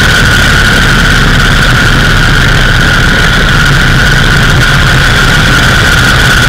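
Indian Scout 101's liquid-cooled V-twin running steadily at cruising speed, heard from the bike with wind rushing over the microphone, and a steady high-pitched whine over it.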